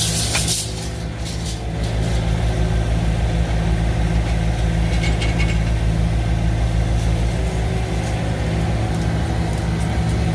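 Excavator engine running steadily at a low, even pitch while digging, with a few short knocks near the start and about halfway through.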